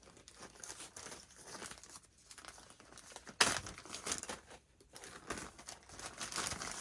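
Irregular rustling and crinkling as plastic parts or packaging are handled on the bench, with one sharp knock about three and a half seconds in.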